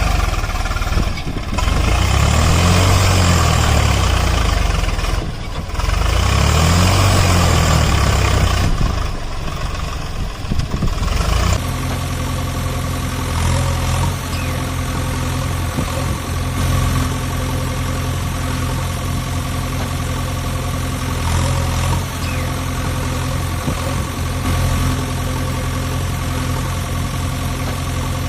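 Heavy diesel engine, from the machines at work loading tractors. For about the first eleven seconds it revs up and down repeatedly. It then changes abruptly to a steady idle.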